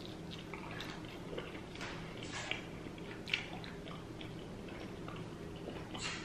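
Chewing and mouth sounds of someone eating: scattered soft clicks and smacks, a few louder ones, over a faint steady hum.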